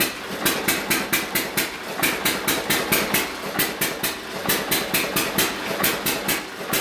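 1924 John Deere E-series hit-and-miss gas engine running under heavy load, firing with a sharp bark at a steady rhythm of about four to five beats a second.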